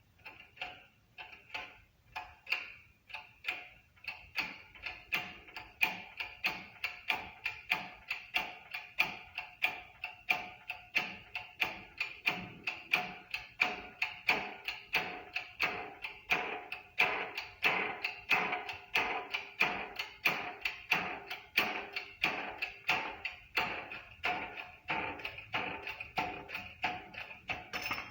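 A hammer striking metal in a steady series of blows, about two a second, each leaving a short metallic ring.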